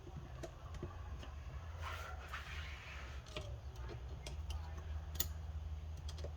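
Faint, scattered metal clicks and taps from hand work on manual transmission parts while a snap ring is being fitted. A steady low hum runs underneath.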